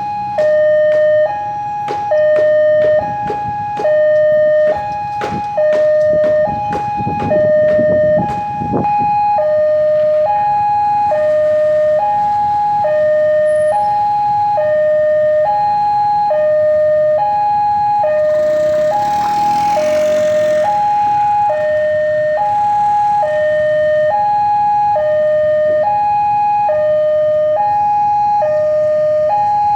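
Railway level-crossing warning alarm: an electronic two-tone signal stepping steadily back and forth between a higher and a lower tone, sounding while the crossing is closed. Over the first nine seconds there is a run of sharp clacks and a low rumble, and a brief rushing swell comes about two-thirds of the way through.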